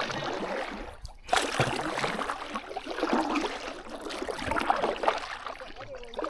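Kayak paddling: water splashing and trickling off the paddle blades as they dip and lift.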